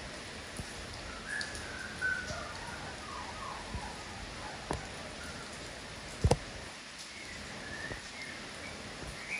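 Steady rain falling, with a kapas tembak bulbul giving faint short chirps now and then and a single sharp knock past the middle.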